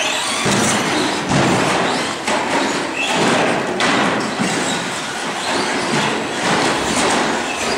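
A pack of radio-controlled short course trucks racing on an indoor track: a busy, loud clatter of motors and tyres, with scattered thuds from landings and bumps.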